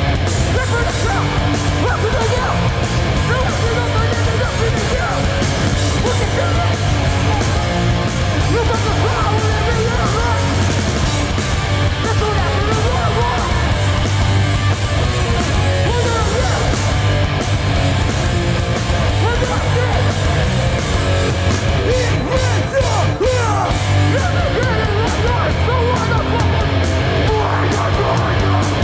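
Hardcore punk band playing live at full volume: heavily distorted electric guitars, bass and drums, with shouted vocals over them.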